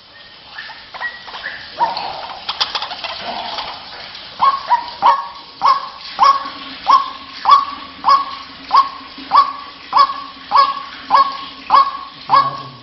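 White-breasted waterhen calling: a few scattered calls, then a steady repeated series of loud, sharp calls, a little under two a second. This is the lure call used to draw other waterhens in.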